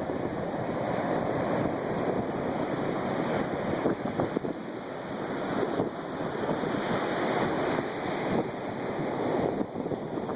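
Ocean surf washing onto the beach in a steady rush that swells and eases, with wind buffeting the microphone.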